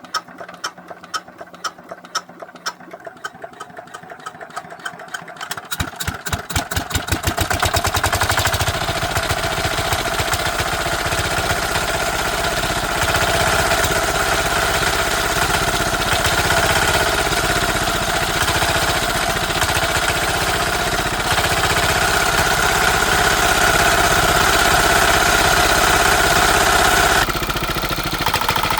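Tractor engine, just rebuilt with new connecting rod bearings and piston rings, being turned over with an even ticking that speeds up, then catching about six to eight seconds in and running steadily, a little quieter near the end. It runs without its exhaust pipe fitted, and now starts easily with the worn big-end bearings replaced.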